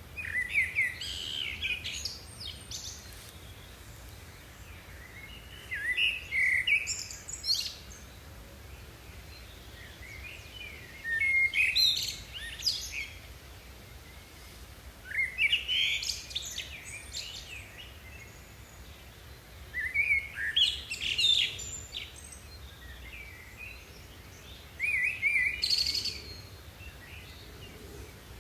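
A songbird singing short, quick phrases of chirps and whistled glides, about one phrase every four to five seconds, six times over a faint steady low hum.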